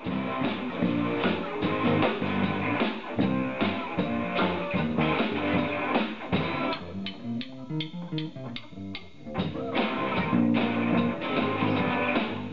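A rock band playing live, with guitar, bass guitar and drum kit. About seven seconds in, the bass and drums drop back for a couple of seconds, leaving lighter guitar, then the full band comes back in.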